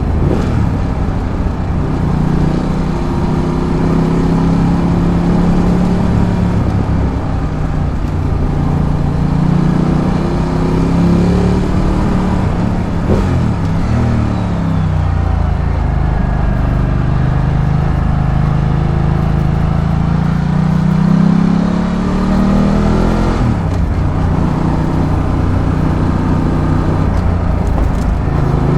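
Ducati Multistrada 1200's V-twin engine pulling along the road, with wind noise on the helmet camera's microphone. The engine pitch rises and falls as the rider accelerates and eases off, dropping and climbing again about halfway through and once more near the end.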